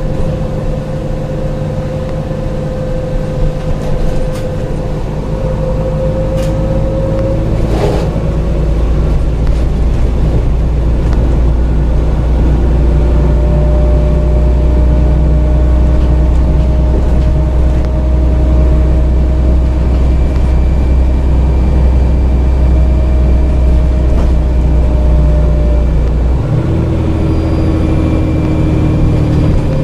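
Dennis Trident double-decker bus with a Voith automatic gearbox, running under load with a heavy low engine rumble and a steady whine above it. There is a sharp knock about eight seconds in, and the engine note drops back near the end.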